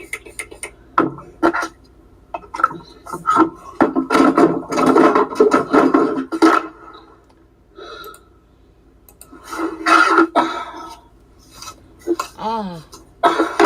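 Objects clattering and knocking as they are handled, with snatches of a voice between the knocks.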